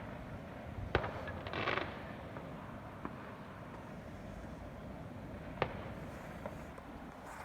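Fireworks going off: a sharp bang about a second in, a short crackle just after, and another sharp bang later, over a steady low background rumble.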